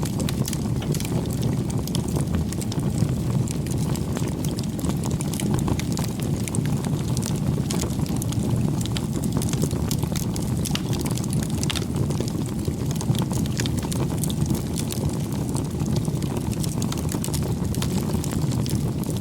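Wood campfire burning, with many small sharp crackles and pops over a steady low rumble of the flames.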